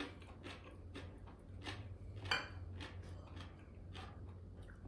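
Faint crunching of crisp fermented cabbage and daikon being chewed, a few irregular crunches a second, with one louder click about two seconds in as a plate is set down on the stone counter. A low steady hum lies underneath.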